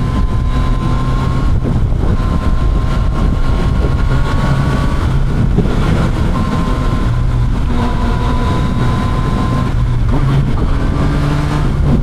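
Motorcycle engine running steadily under way, heard from the rider's seat with wind and road noise; its pitch shifts slightly a few times as the throttle changes.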